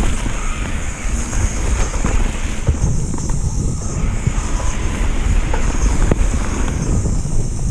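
Wind buffeting the camera microphone over the steady rumble and rattle of a mountain bike descending a rough downhill trail, with scattered clicks and knocks.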